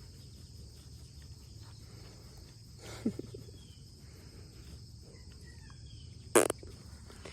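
Steady high-pitched chirring of crickets over a low background hum. A brief sound comes about three seconds in, and a single sharp, loud thump comes a little after six seconds.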